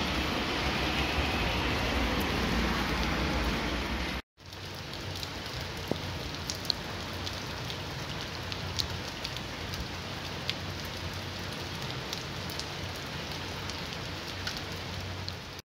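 Rain pouring onto wet asphalt. For the first four seconds it is louder, with a low rumble underneath. After a brief cut it is steadier, with close raindrops ticking here and there.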